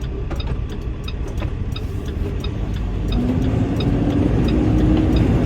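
Semi truck's diesel engine running and pulling away, growing louder and rising in pitch over the last couple of seconds as it accelerates. A regular ticking sounds about two or three times a second throughout.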